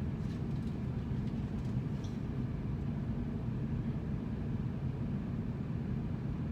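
A steady low mechanical drone, with a few faint light clicks in the first two seconds.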